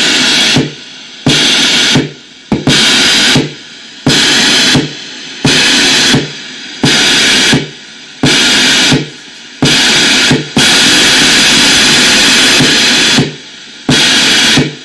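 Electronic white noise gated in a rhythm: loud, bright hiss bursts of under a second switching sharply on and off about every 1.4 seconds, with one longer burst of about three seconds near the end and a quieter hum-and-hiss bed between bursts.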